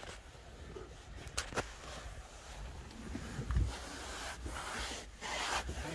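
Rubbing and scuffing of cleaning a truck cab's grimy interior surface, with a few sharp clicks and light knocks.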